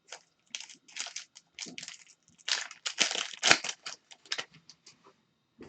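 Foil trading-card pack wrapper crinkling and rustling as it is torn open and the cards are pulled out. The crackles are irregular and run thickest about halfway through.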